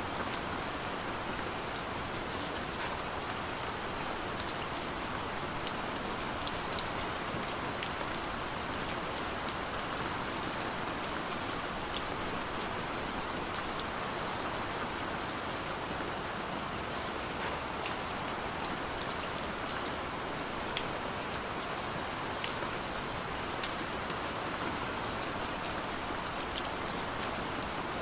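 Steady gentle rain falling, an even hiss with scattered sharp ticks of individual drops hitting a surface.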